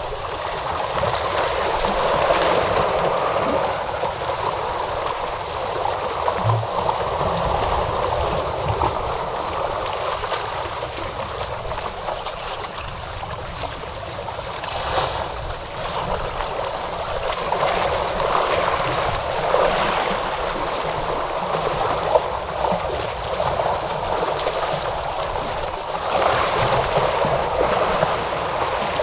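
Ocean surf washing in, a continuous rush of water that swells and eases every few seconds.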